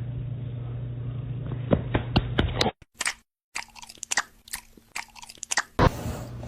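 An animal chewing something crunchy: a series of crisp bites and clicks, broken by a short silence about three seconds in.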